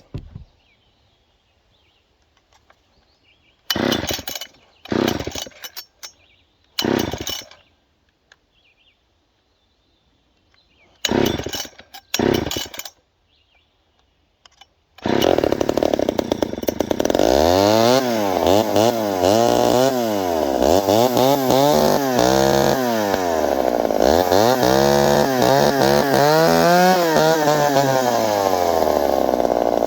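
Poulan 306A two-stroke chainsaw being pull-started: five short pulls of the starter cord with quiet between, then about 15 seconds in the engine catches and runs, revved up and down over and over. It is its first start after a long lay-up with its fuel and oil drained.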